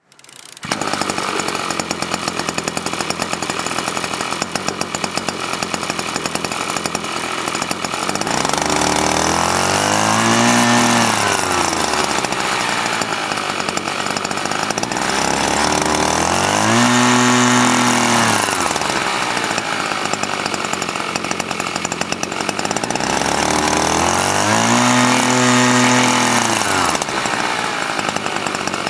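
Small gasoline engine of an OREC SP650A slope mower running steadily, revved up and back down three times.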